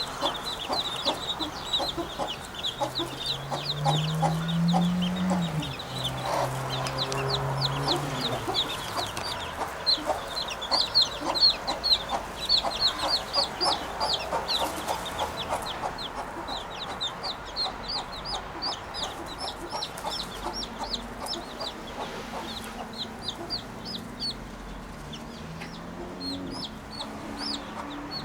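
Birds chirping continuously in a dense run of short, quick, high-pitched notes, with a low steady hum underneath for a few seconds near the start and again near the end.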